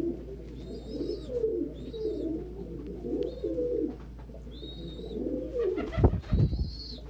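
A flock of domestic pigeons cooing over one another, with repeated short high-pitched peeps among the coos. About six seconds in there are a couple of loud low thumps.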